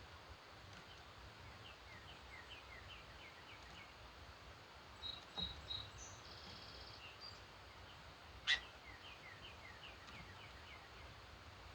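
Wild birds singing at dawn. One bird gives a song of a quick run of short falling notes, twice, with a few higher chirps and a brief buzzy note from others in between. A single sharp click about two-thirds of the way through is the loudest sound.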